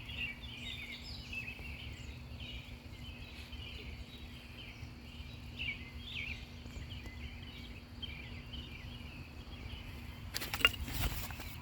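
Chorus of periodical cicadas, a shrill, wavering, pulsing mass of insect song over a low rumble. Near the end, a few loud bumps cut across it.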